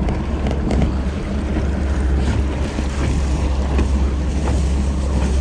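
Steady wind rumbling on the microphone, with water noise around a small fishing boat and a few faint clicks.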